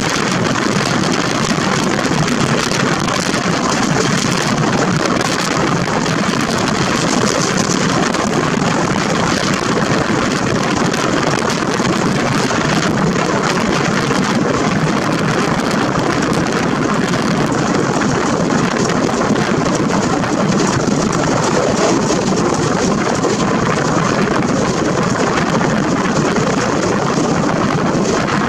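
Steady rush of wind and wheel-on-rail noise from a passenger train running at speed, heard from an open coach doorway.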